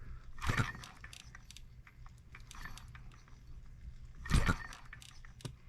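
Light metallic clicks and two brief louder clatters, about half a second in and again near the end, from hands working a small model hit-and-miss engine that is not running, over a steady low hum.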